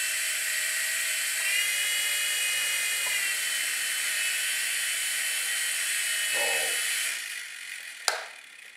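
Micro RC helicopter's small electric rotor motors whirring with a high whine, the tail rotor now running. The whine's pitch rises and falls briefly about two seconds in, then the motors wind down and stop about seven seconds in. A single sharp click follows near the end.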